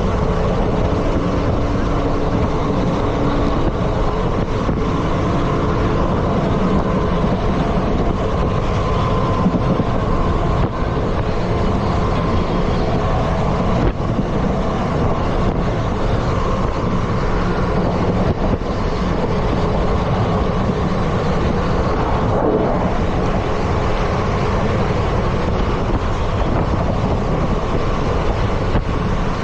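ICF passenger coach running at speed on the track: a steady, loud rumble of wheels on rails.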